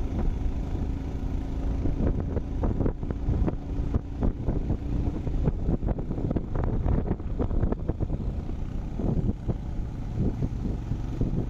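Motorcycle running on the move, with wind buffeting the microphone in irregular gusts over a steady low rumble.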